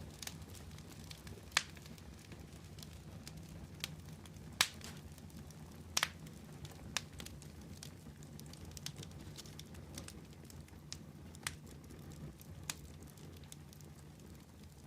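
Wood fire crackling: irregular sharp pops and snaps over a low, steady rumble of the flames, with a few louder pops scattered among the small ones.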